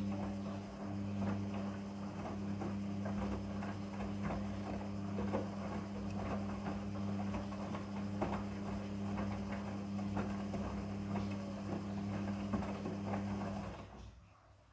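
Midea front-loading washing machine running mid-cycle: a steady electrical hum with irregular knocks and splashes of water inside. It cuts off suddenly near the end.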